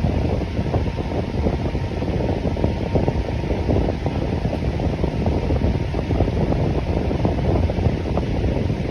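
Electric fan running steadily: a constant, deep rush of moving air with no rhythm or change.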